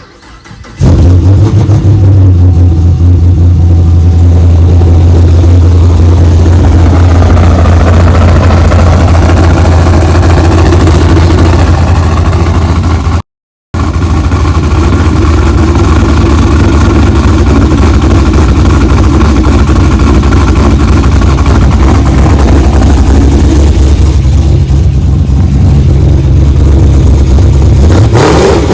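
Chevrolet Camaro SS 6.2L V8, fitted with a Stage IV camshaft, catless headers and a straight-piped exhaust, running loud and steady at idle. It comes in abruptly about a second in and drops out for a short moment about 13 seconds in.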